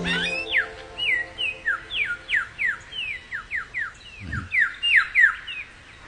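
A songbird singing a quick run of short whistled notes, each sliding down in pitch, about three a second. A soft low thump comes about four seconds in.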